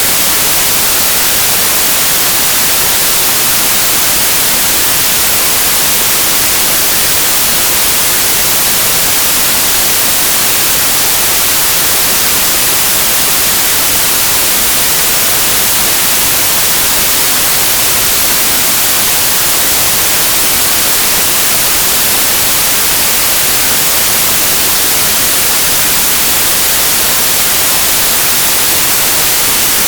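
Synthetic white noise: a steady, even hiss that is brightest in the high frequencies, with no changes.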